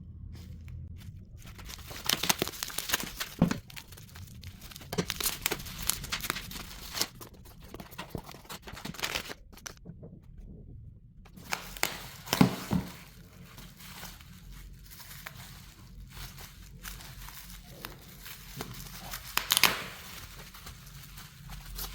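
Parcel packaging crinkling and tearing as it is unwrapped by hand, in irregular rustles with a few sharp loud rips.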